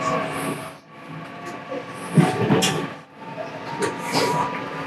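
Local train on the Kisei Line running along the track, heard from inside the car behind the driver's cab: a steady running rumble with a faint whine, broken by several sharp clicks and hisses.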